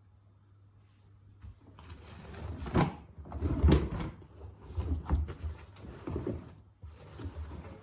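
Miele W Classic front-loading washing machine knocking and thumping: a run of irregular clunks with heavy low thuds, starting about a second and a half in and loudest around the middle.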